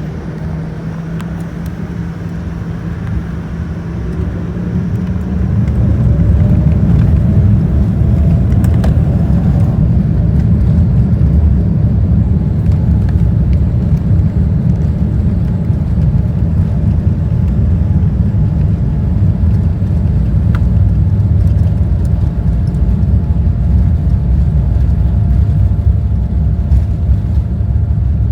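Boeing 787-9's engines spooling up, heard from inside the cabin: a rising whine about four seconds in as the low rumble swells. A loud, steady rumble of takeoff thrust follows.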